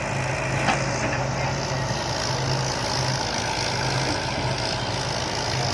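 Heavy diesel machinery running steadily, with a low hum that cuts in and out unevenly.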